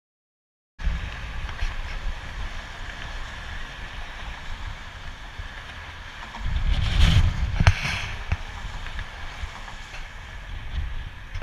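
Harley-Davidson Street Glide under way: wind rushing over the microphone with the V-twin engine's low rumble beneath, starting abruptly about a second in, with a louder stretch of wind buffeting a little past the middle.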